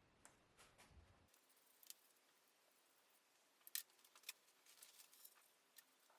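Near silence with scattered faint clicks and light taps, the loudest a close pair of clicks a little past the middle.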